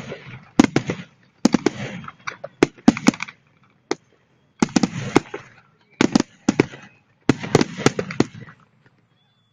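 Fireworks display: aerial shells bursting in quick clusters of sharp bangs, about half a dozen volleys separated by short pauses.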